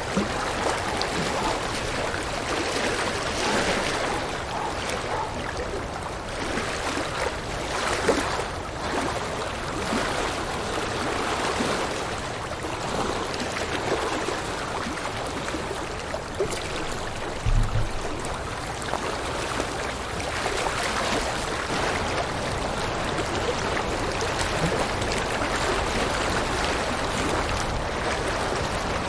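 River water rushing and splashing over rocks in a steady, continuous flow. A brief low thump comes about two-thirds of the way through.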